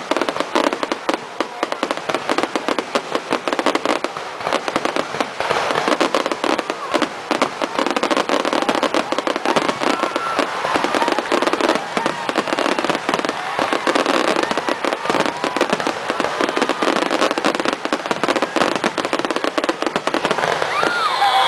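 Fireworks crackling: a dense, near-continuous run of rapid pops, with a couple of faint whistles about halfway through and again near the end.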